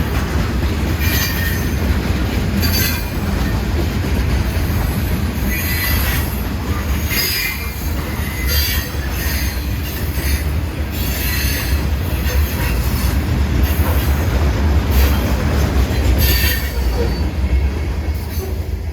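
Railroad cars rolling past with a steady deep rumble, and the wheels squealing in repeated high screeches every second or so. The sound eases off at the very end.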